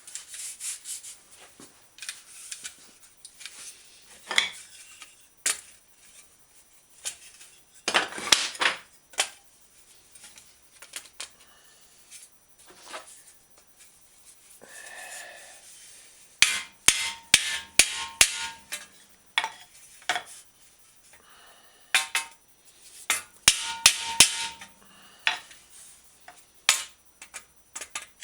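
Steel bicycle fender being tapped to knock out dents. Sparse taps and handling noise come in the first half, then quick clusters of sharp taps in the second half, some leaving a short metallic ring.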